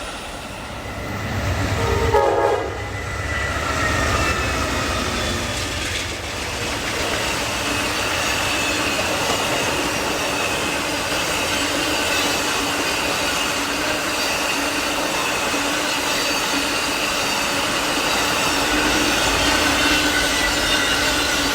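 Amtrak Auto Train cars rolling past on the rails: a continuous rumble with a steady high wheel squeal over it, and a brief louder burst about two seconds in.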